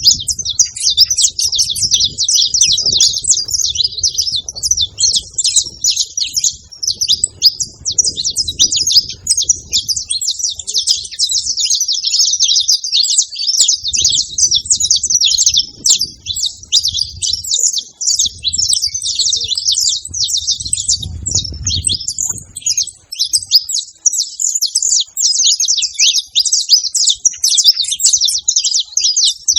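Saffron finch (canário-da-terra) song: a fast, almost unbroken stream of high chirping and trilling notes. Patches of low rumble come and go beneath it.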